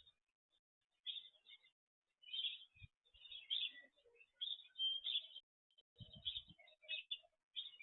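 Small birds chirping in short bursts of quick, high notes, about one burst every second. A brief low thud comes about three seconds in, and a few more come together about six seconds in.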